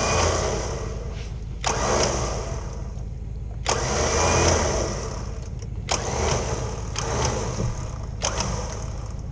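Electric winch on a homemade gin-pole crane run in short bursts: each starts with a sharp click, followed by a second or two of motor whirring, four times, over a steady low hum.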